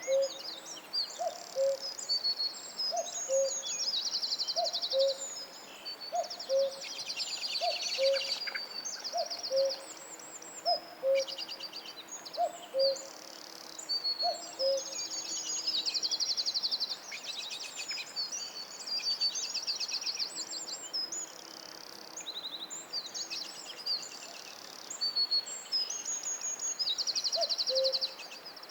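Forest birdsong: several songbirds sing high trills and whistles. Under them a low two-note hooting call, falling from the first note to the second, repeats about once a second through the first half and again near the end.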